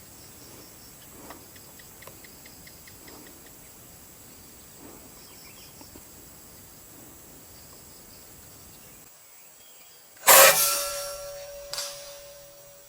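Quiet outdoor background with faint short chirps, then a PCP air rifle fires once about ten seconds in: a sharp loud report that fades over a second or so, leaving a steady ringing tone. A smaller click follows about a second and a half later.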